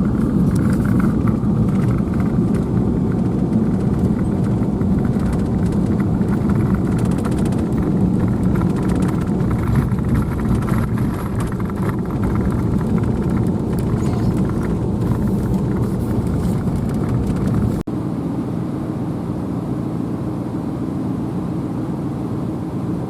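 A vehicle driving along a road: steady low engine and tyre rumble. It breaks off sharply about eighteen seconds in and goes on a little quieter.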